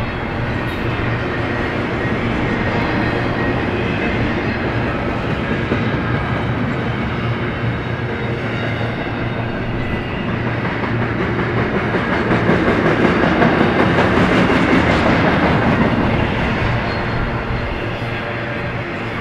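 Long freight train rolling past close by: a steady rumble of steel wheels on rail with clickety-clack of wheels over the rail joints. It swells louder about two-thirds of the way through, then eases again.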